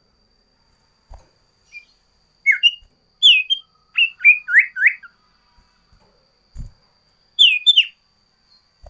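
Sirtu songbird calling in short, sharp whistled chirps: a quick run of rising and falling notes for a couple of seconds, then a pair of downward-sliding notes near the end. A faint steady high tone runs underneath, with a couple of soft low knocks.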